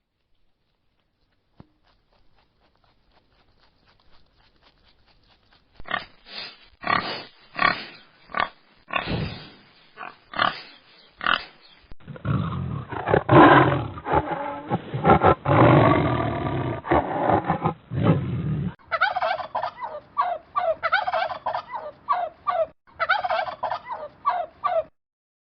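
Animal calls from several clips cut one after another. After a few seconds of near silence comes a run of short repeated calls, then a longer continuous call for about six seconds, then another run of quick calls.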